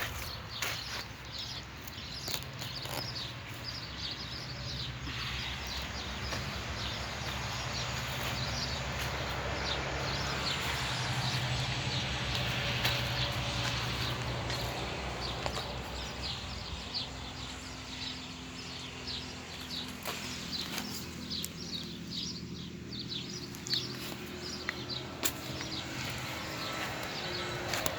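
Small birds chirping over and over, with a steady low hum underneath.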